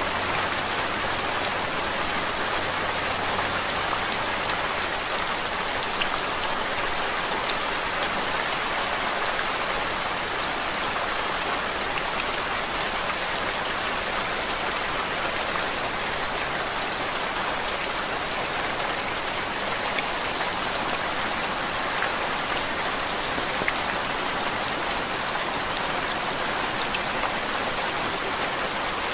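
Steady rain falling on a surface: an even hiss with faint, scattered drop ticks throughout.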